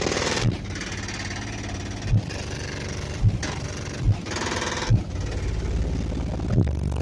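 Music played loud through a car-audio subwoofer system, heavy deep bass with a handful of separate drum thumps, and a buzzing rattle running under it.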